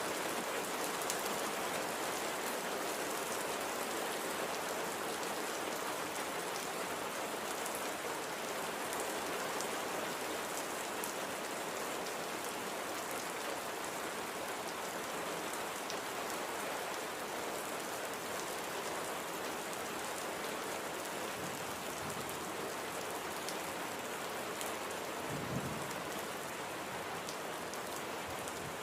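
Steady rain falling, with individual drops ticking on a surface, and a short dull low thump about 25 seconds in.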